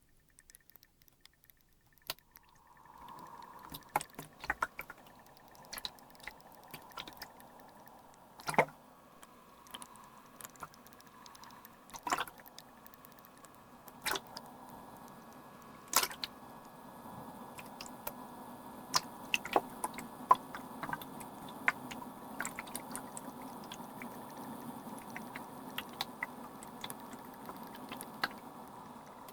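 Humidifier starting up about two seconds in and running with a steady watery hiss, with small drips and pops of water scattered over it, a few of them louder.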